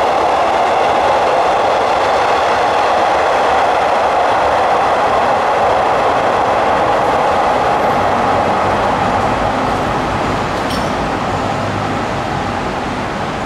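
A train passing at speed, its wheels rolling steadily on the rails, then fading over the last few seconds.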